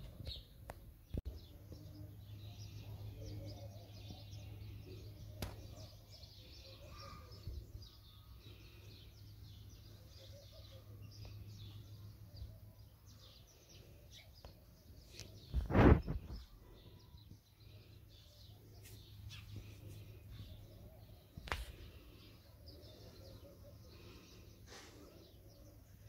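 Small birds chirping in short, scattered calls, over a low steady hum. One loud, brief rumbling thump comes about two-thirds of the way through.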